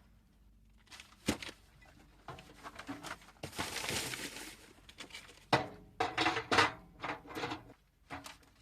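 Food packaging and a container being handled: a single knock a little over a second in, a rustle of packaging around the middle, then a quick run of clicks and knocks.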